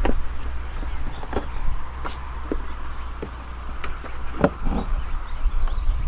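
Insects chirring steadily in a high-pitched drone over a constant low rumble, with a few scattered light knocks and clicks.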